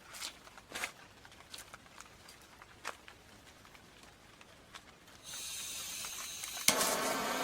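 A few faint clicks, then gas starts hissing from a torch about five seconds in; near the end a sharp click lights it and the flame burns with a steady, louder rush, ready for singeing the plucked rooster's pinfeathers.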